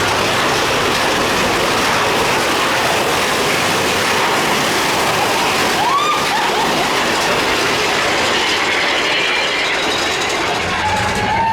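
Big Thunder Mountain Railroad mine train running along its track, a steady loud rush of rolling wheels and air. A short rising wheel squeal comes about halfway through, and a longer squeal near the end.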